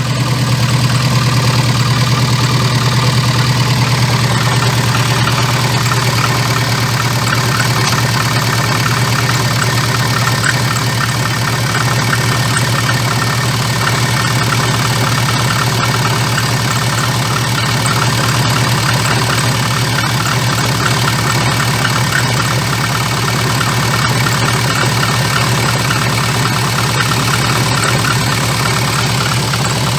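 VAZ-2114's four-cylinder engine idling steadily with a fine rapid ticking over the drone. Its crankshaft damper pulley is wobbling badly, which the owner takes for the source of the knock.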